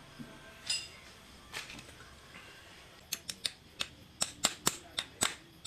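Sharp mechanical clicks: a few scattered ones at first, then from about three seconds in a steady series of about three to four a second.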